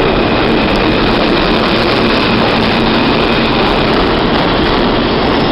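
New York City subway train running on the rails: a loud, steady rumble of wheels and running gear, with a faint steady hum through it.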